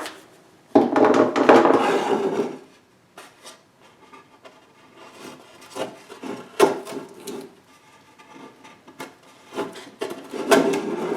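Wooden box parts being handled on a workbench: wood rubbing and scraping on wood, with scattered light knocks. There is a longer, louder rub about a second in and another near the end.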